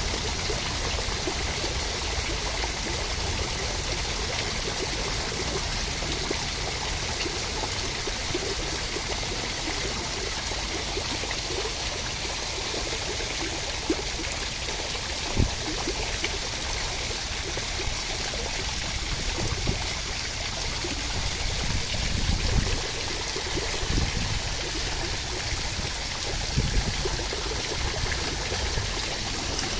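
Steady rushing water sound, with a few brief soft low knocks scattered through it.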